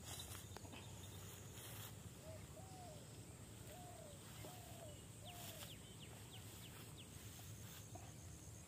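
Quiet outdoor background with a bird giving about five faint, short rising-and-falling notes in the middle.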